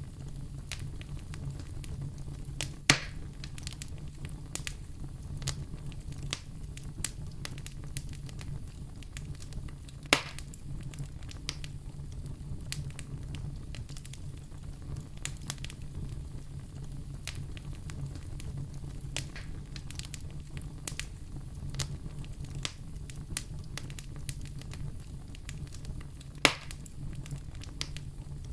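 Fire crackling in a fireplace: a steady low rumble under a constant scatter of small crackles, with three louder pops spread through.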